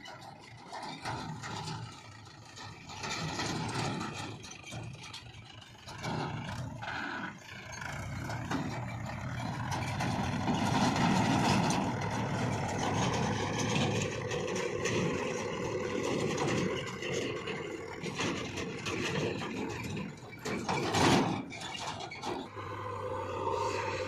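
Heavy diesel machinery, a JCB 3DX backhoe loader working alongside a tractor, running and working under load while loading mud. The engine noise grows louder about eight seconds in, with a short loud burst a little after twenty seconds.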